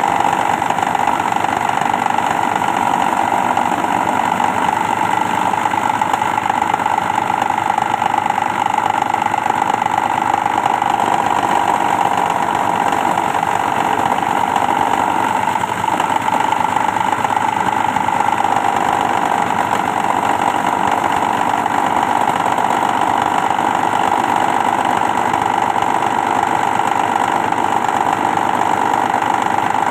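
Plastic shredding machine running steadily at speed, with a strong steady whine. Its pitch sags briefly about halfway through, then recovers.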